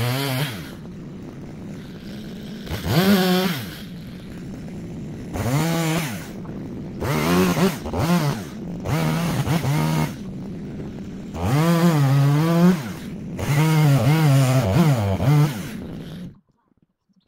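Two-stroke chainsaw revving again and again as it cuts logs into firewood lengths, its engine pitch climbing and sagging with each cut. The sound cuts off abruptly about a second before the end.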